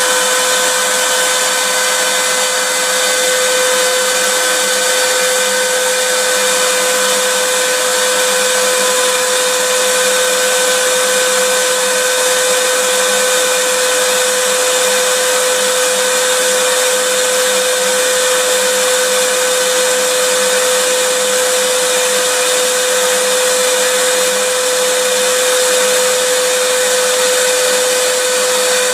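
Vacuum cleaner running steadily: an even rush of air with a constant whine from the motor.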